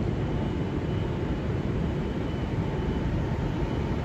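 Steady railway-station background noise: a low, even rumble with a faint steady whine over it and no distinct events.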